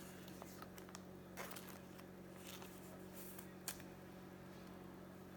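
Faint handling of cardboard baseball cards: a few soft rustles and slides as cards are flipped through, with one sharper tick a little past three and a half seconds in, over a steady low electrical hum.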